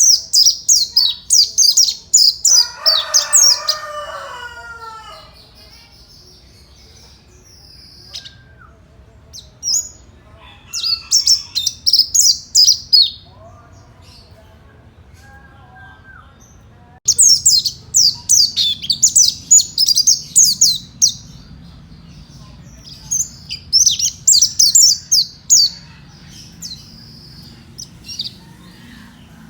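Mountain white-eye (pleci) singing in four bouts of rapid, very high-pitched twittering song, with short pauses between. A lower, slurred call from another bird sounds about three seconds in.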